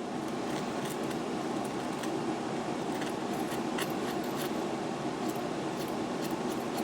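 Flat lathe file cutting along the steel bit of an axe, a steady scraping rasp with scattered faint ticks, as the edge is sharpened and a wire burr raised. A low fan or air-conditioner hum runs underneath.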